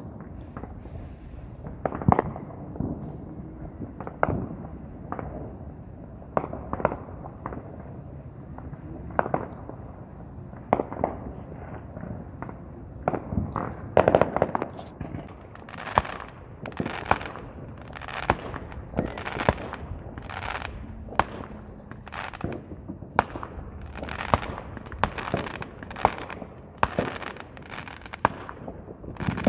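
Fireworks going off: scattered sharp bangs, then from about halfway through a quicker, steadier run of bangs with hissing tails, a bit over one a second.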